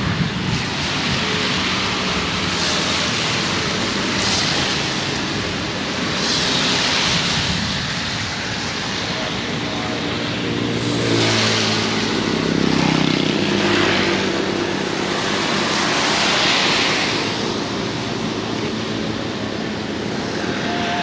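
Heavy rain hissing steadily, swelling in gusts every few seconds. A motor vehicle's engine passes by from about 11 to 14 seconds in.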